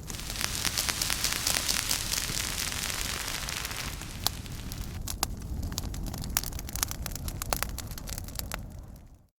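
A fire burning, a steady hiss with many sharp crackles and pops. It fades out just before the end into a brief silence.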